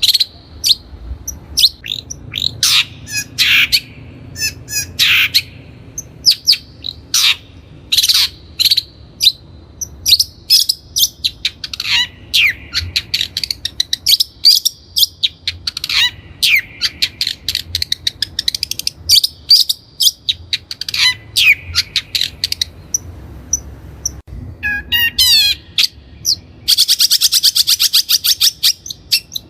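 Long-tailed shrike (Lanius schach) singing: a busy string of sharp, quick chirps and downward-sliding notes, breaking near the end into a fast, even rattle of rapid notes.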